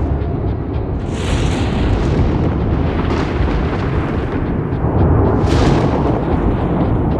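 Thunder rumbling loudly and continuously, with sharp crackles scattered through it and two hissing swells, about a second in and about five and a half seconds in.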